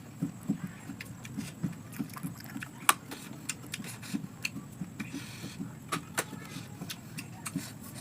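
Close-up eating sounds: chewing, with many small clicks and a sharp click about three seconds in.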